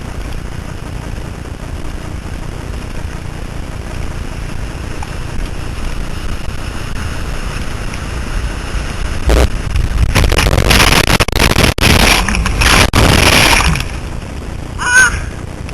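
Ocean surf and wind noise on the microphone, steady at first, then a loud rush of noise lasting about five seconds from roughly nine seconds in. A short high-pitched call follows near the end.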